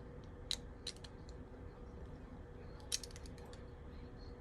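Faint, scattered clicks of small plastic Lego pieces being handled: a few in the first second or so and a little cluster about three seconds in, over a faint steady hum.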